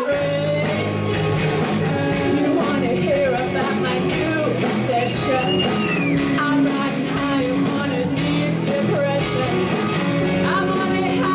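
Rock band playing: electric guitar, bass and drums with a steady beat.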